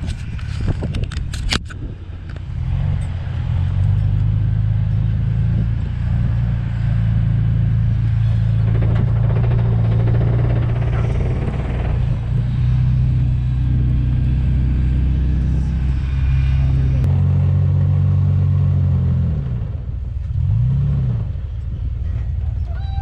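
An off-road 4x4's engine running at steady revs for a long stretch, its note shifting and easing off a few seconds before the end. A few sharp knocks come about a second in.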